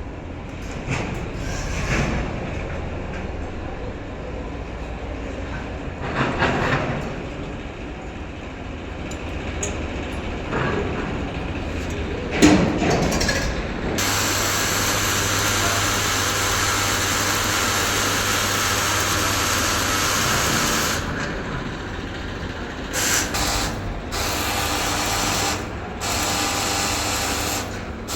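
Heavy diesel machinery working: a backhoe loader and tractor engines, with the engine noise rising and falling in the first half. It then runs steadily at higher revs from about halfway, with a few abrupt drops near the end.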